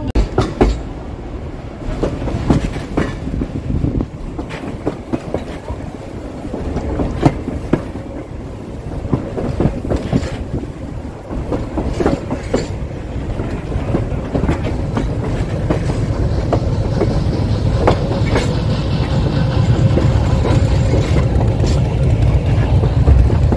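Heritage steam railroad train rolling along the track: irregular clicking and clacking of the wheels over rail joints above a constant low rumble, which grows louder near the end.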